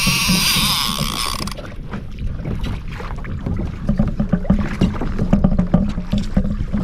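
Loud hiss that cuts off abruptly about a second and a half in, then low wind rumble and water sounds around a fishing kayak, with many small clicks and knocks of gear being handled.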